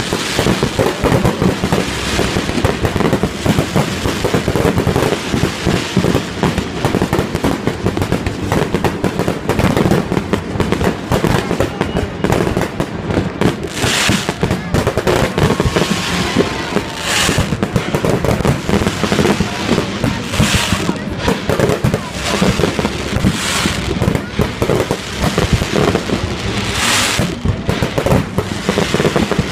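Fireworks display: a dense, continuous barrage of bangs and crackling shell bursts. From about halfway through, a short hissing rush recurs roughly every three seconds.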